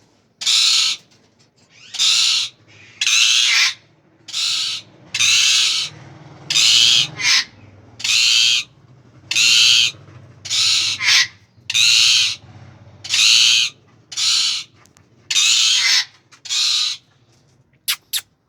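Indian ringneck parakeet giving a long run of loud, harsh screeching calls, each about half a second long and coming roughly once a second. Near the end come two very short, sharp sounds.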